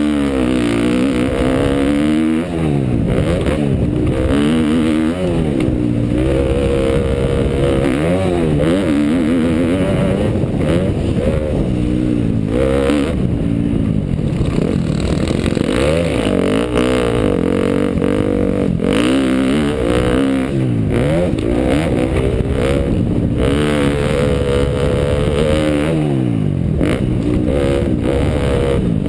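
2012 KTM dirt bike's engine on a motocross track, revving up and easing off over and over as the rider works the throttle, its pitch rising and falling every second or two.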